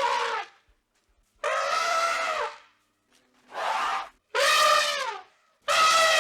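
African elephant trumpeting: a run of loud pitched calls, each about a second long, four or five in a row with short gaps between them.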